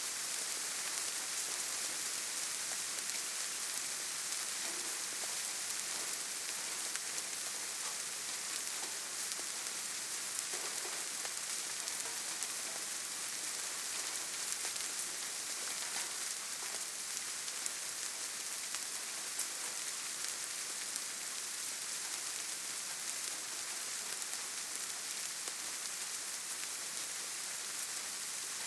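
Steady rainfall in a forest, a dense even hiss with many fine drop ticks.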